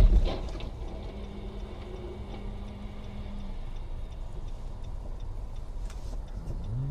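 A loud thump right at the start, then a car's steady low road and engine noise.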